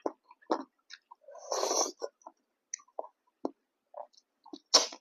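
Close-up eating sounds from a meal of pork and chicken curry with rice: irregular wet chewing smacks and mouth clicks, with a longer noisy burst about one and a half seconds in and a sharp smack near the end.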